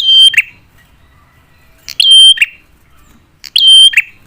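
Prinia (prenjak) calling loudly, three identical short calls about one and a half to two seconds apart, each a brief held high note dropping to a lower note.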